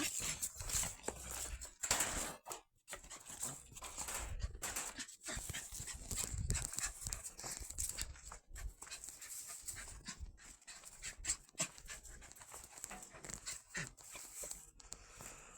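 A small dog panting in quick, uneven breaths.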